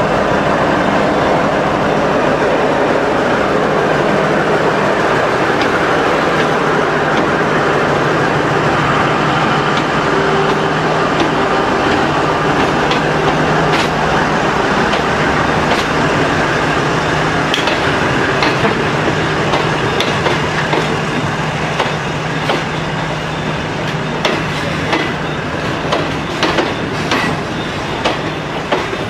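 Alsthom diesel-electric locomotive pulling a passenger train out of the station close by, its engine droning steadily, as the coaches roll past. Wheel clicks on the rail joints come more and more often in the second half.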